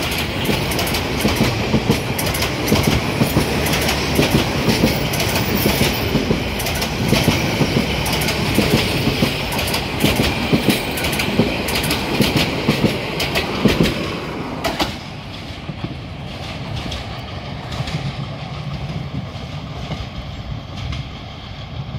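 Metre-gauge intercity passenger train's coaches running past close at speed, their wheels clattering rhythmically over the rail joints. About fifteen seconds in, the last coach goes by and the clatter drops away suddenly into a quieter rumble as the train moves off down the line.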